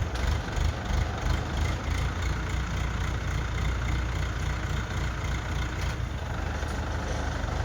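Diesel engine of an ACE Hydra mobile crane running steadily with a low rumble.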